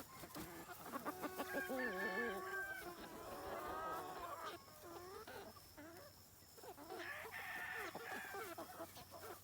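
Free-range chickens calling: a rooster crows once about a second in, long and held, and hens cluck and squawk for the rest of the time.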